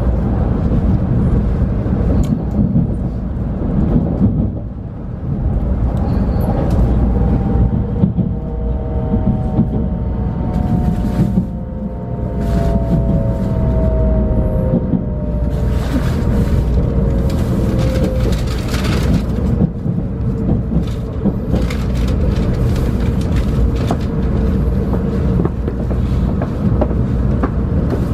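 Shinkansen train heard from inside the passenger car: a steady low rumble of wheels on track, with a few tones gliding slowly down in pitch from about six to nineteen seconds in as the train slows, and irregular short clatter from about ten seconds on.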